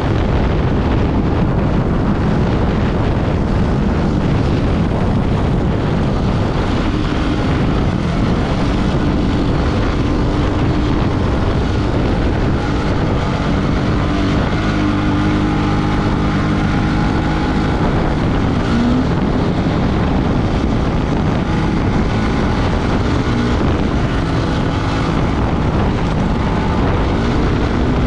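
Off-road motorcycle engine running hard while riding over desert, with wind buffeting the microphone.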